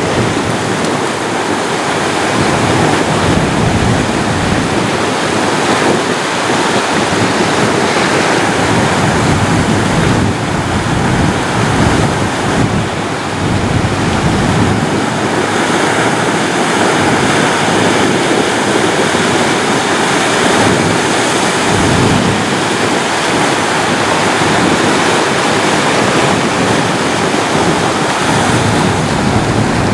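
Ocean waves washing on a shore in a steady, continuous surf noise that swells and eases slowly, with no other sounds.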